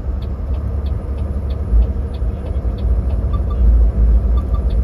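Truck on the move: a loud, uneven low rumble, with faint quick ticks about three times a second.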